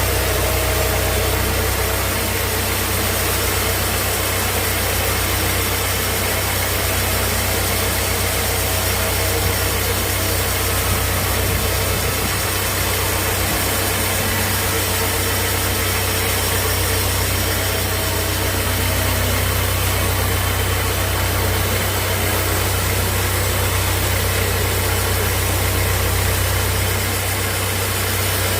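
Steady engine hum of sawmill machinery running, a low drone under a constant noisy hiss, with a slight dip in level near the end.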